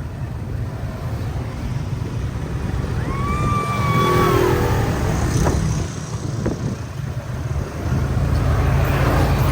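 Vehicle engine running with a low, steady rumble while driving, easing off briefly around six to seven seconds in and louder again after eight. About three seconds in, a high held tone sounds for over a second, sliding down at its end.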